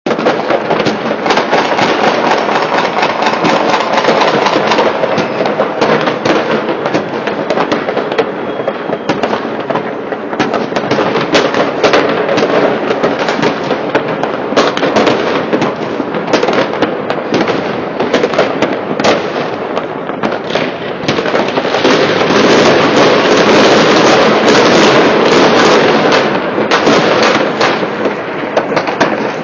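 Many fireworks going off at once: a dense, continuous crackle of bangs and pops with no gaps, thickening into a steady crackle about three quarters of the way through.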